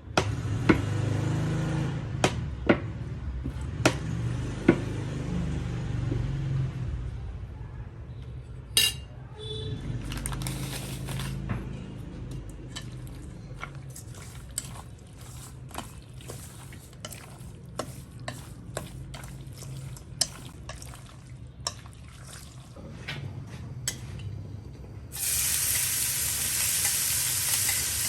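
Kitchen utensils clicking and knocking against dishes, with one ringing metal clang near the middle. About 25 s in, a sudden loud sizzle starts as food goes into hot oil in a pan and keeps frying.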